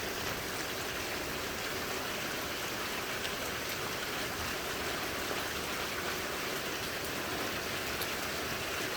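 Steady rain during a hailstorm, falling evenly throughout, with a few faint ticks.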